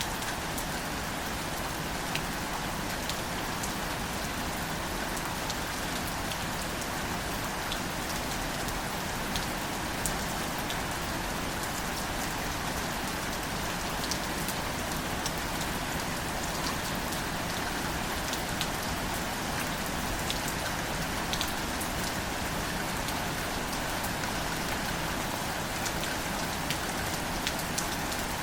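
Steady rain falling on plants and the ground, a constant hiss with many separate drops ticking close by.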